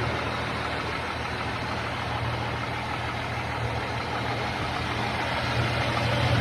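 1982 Jeep Grand Wagoneer engine idling steadily, fully warmed up after about an hour of running.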